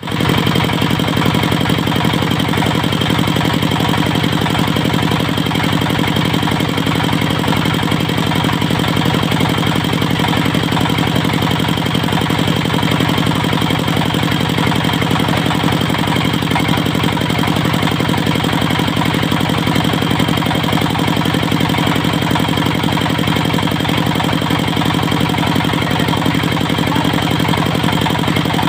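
Diesel engine of a portable circular sawmill running steadily, with a thin, steady high whine over it.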